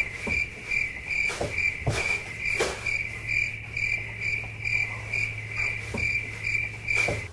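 Cricket chirping in a steady, even rhythm, a little over two chirps a second, with a few soft knocks mixed in.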